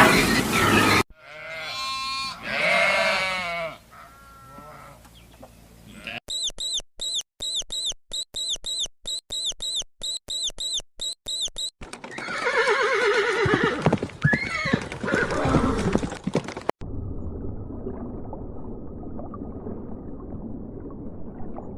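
A series of different animal calls cut one after another: a few pitched calls early, then a quick run of evenly repeated high chirps about twice a second for several seconds, then more calls over a noisy background, ending in a low steady rumble.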